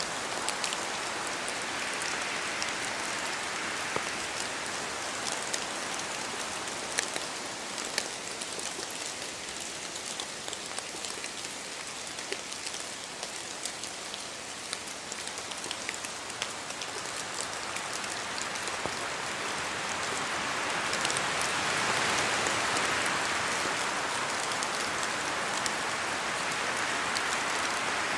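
Steady rain falling in a forest, with individual drops from the trees ticking sharply close by. The rushing sound swells louder about two-thirds of the way through.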